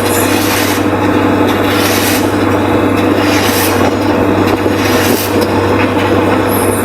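JCB backhoe loader's diesel engine running steadily under load, with a steady whine over its hum. Short scraping noises recur about every second and a half, as the bucket works the earth.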